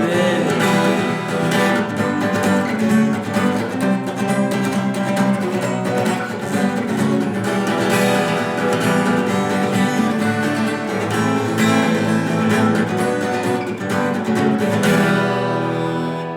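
Twelve-string acoustic guitar strumming the song's closing chords as an instrumental outro, with no singing, the strings ringing on at the end.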